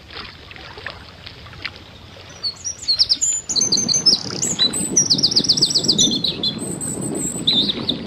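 A bird singing: a series of high chirps, with a quick run of about eight repeated notes a little past the middle. From about three and a half seconds in, a low steady rumble of background noise runs under it.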